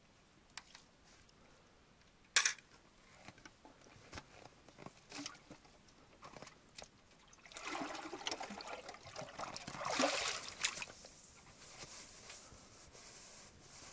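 Spring water splashing and pouring as a bucket is dipped and emptied, for about three seconds past the middle. A single sharp knock comes a couple of seconds in.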